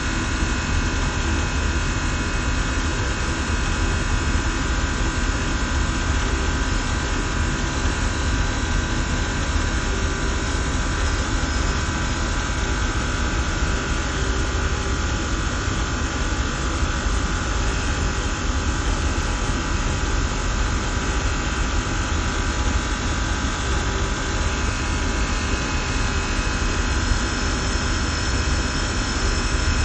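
HVAC machinery of a chiller and fan-coil system running steadily: a deep hum under a broad rushing noise, with several steady tones held throughout.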